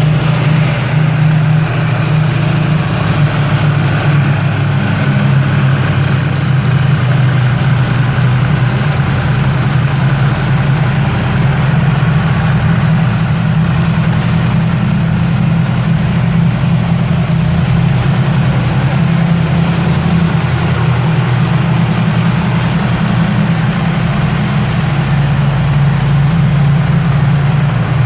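2016 Yamaha R1's 998 cc crossplane inline-four engine idling steadily just after starting.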